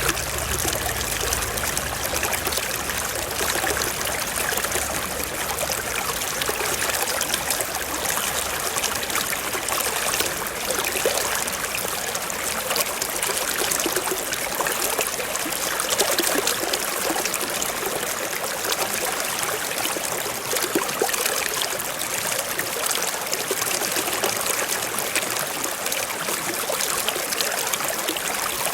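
Forest stream flowing, a steady, continuous trickling and babbling of water.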